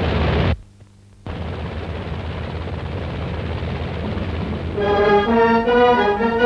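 A steady, noisy rumble cuts out for under a second about half a second in, then resumes. About five seconds in, orchestral film music begins, with melodic lines that move in pitch.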